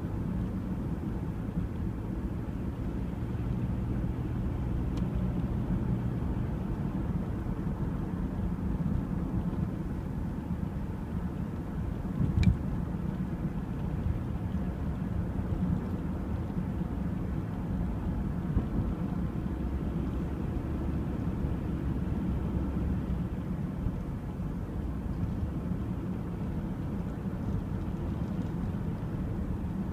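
Steady low rumble with a faint hum, and one sharp click about halfway through.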